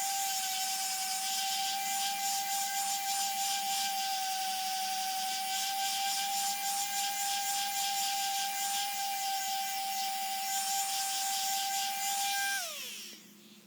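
Electric power tool running at a steady speed with a rasping abrasive noise, as of grinding or sanding metal. Near the end it is switched off and its whine falls away as the motor spins down.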